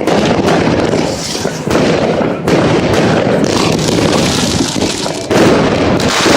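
Many fireworks going off at once: a dense, continuous barrage of bangs and crackling, with a fresh loud volley about five seconds in.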